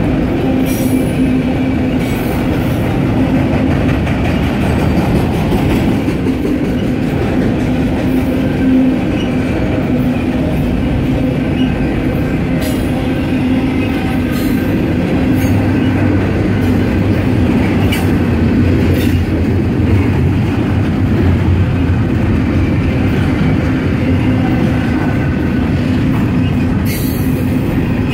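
A freight train's cars rolling steadily past at close range: a loud, continuous rumble of steel wheels on rail, with a steady squeal from the wheels and occasional clicks and clanks over rail joints.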